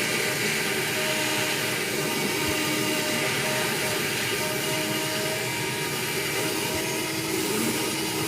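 A vacuum cleaner running steadily, a constant rushing noise with a faint hum in it.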